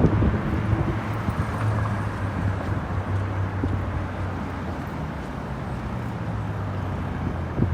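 Street traffic noise: a steady low hum of vehicles, with the noise of passing cars.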